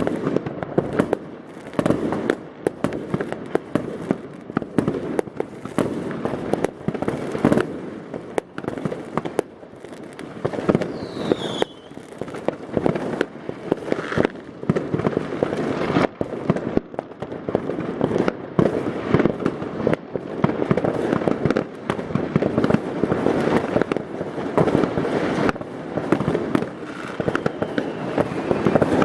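Many fireworks and firecrackers going off at once across the neighbourhood, an unbroken barrage of overlapping bangs and crackling. A single falling whistle sounds about eleven seconds in.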